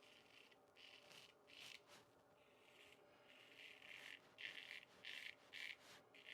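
Weck Sextoblade replaceable-blade straight razor scraping through lathered stubble in short, faint strokes, sparse at first and coming about twice a second in the second half.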